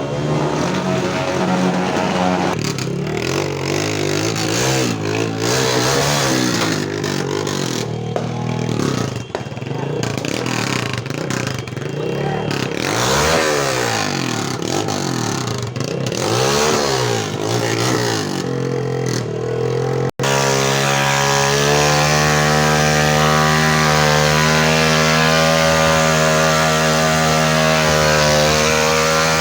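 Motorcycle engines running, their pitch rising and falling as they rev. After a brief cut about two-thirds of the way through, a single engine runs at a steady speed.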